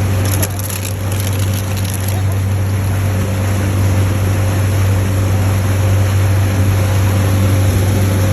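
Motorboat engine running at a steady low drone, with the rush of water and wind around the boat; a brief burst of high hiss comes about half a second in and lasts about a second and a half.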